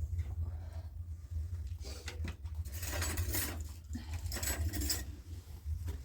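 Light clinks and rustling from household objects being handled, with two louder rustling stretches about three and four and a half seconds in, over a steady low hum.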